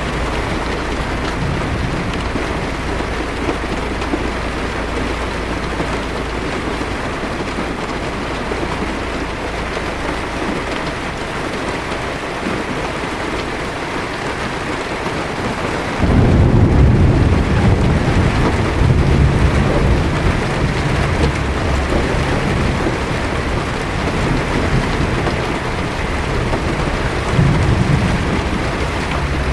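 Heavy rain pattering steadily on a car's windshield and roof. About halfway through, a deep thunder rumble comes in suddenly and rolls on, swelling a couple of times.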